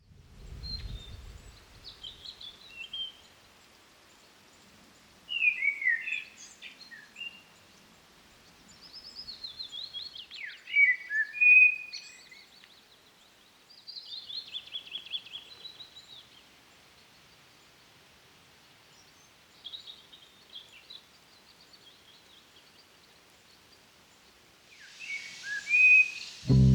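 Birds singing outdoors: short chirping and trilling phrases every few seconds, separated by quiet pauses, with a brief low rumble at the start.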